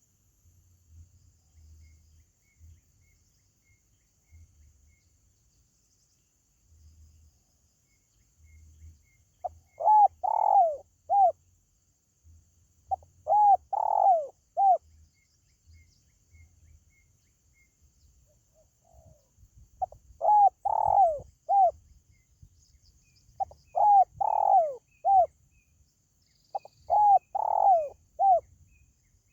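Spotted dove cooing: five phrases, each a short run of three or four quick coos, a few seconds apart with a longer gap in the middle. Faint ticking and a thin high hiss lie underneath.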